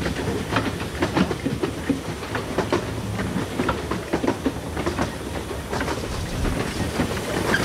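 A 15-inch gauge passenger train heard from an open carriage as it runs along the track: a steady rumble with frequent irregular clicks and clacks from the wheels on the rails.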